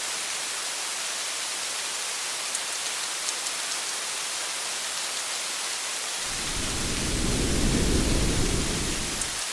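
Steady rain falling on a parked car, an even hiss with a few sharp drops ticking. About six seconds in, a low rumble of thunder swells, then cuts off suddenly near the end.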